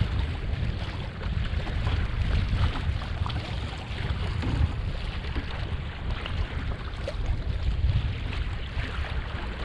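Steady wind noise buffeting the microphone, with water splashing and lapping against the hull of a small homemade sailing kayak under sail.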